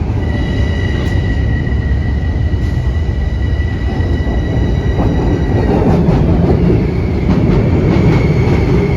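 Metro-North commuter train moving through the station with a heavy rumble and a steady high whine of several tones. About six seconds in the whine dies away and a new one rises, while short clicks from the wheels come thick and fast.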